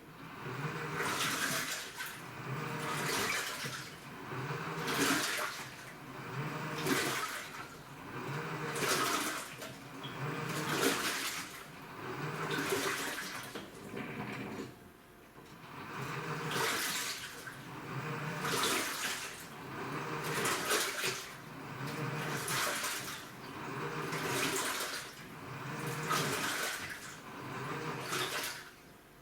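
Top-loading washing machine with a direct-drive inverter motor, in its wash agitation: the pulsator churns the water in swishing surges about every two seconds, each with a low motor hum, with a short lull about halfway through.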